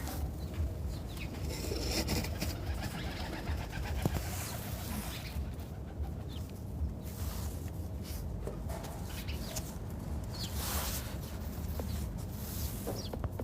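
Birds calling, with some cooing, over a steady low hum and recurring swells of hiss.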